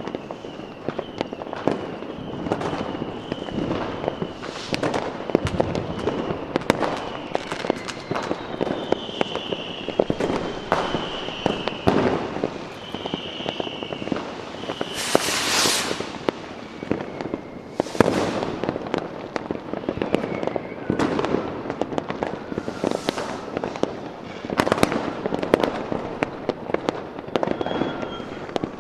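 Fireworks going off continuously: a dense run of bangs and crackling pops, with a wavering high whistle through the first half. Loud hissing rushes come about halfway through and twice more later.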